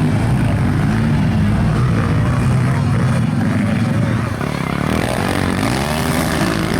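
A motor vehicle's engine running close by, its pitch rising and falling as it is revved.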